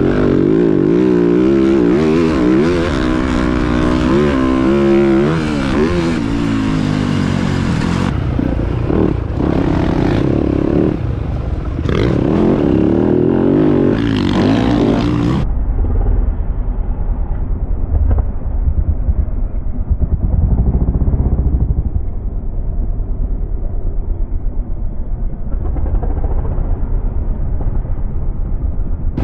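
Motocross dirt bike engines revving, their pitch rising and falling as the bikes run the track. About fifteen seconds in, the sound abruptly turns into a muffled low rumble with uneven thumps.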